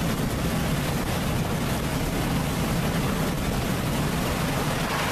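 MiG-35 fighter jet's engines, a steady, even rush of noise that is heaviest in the low end.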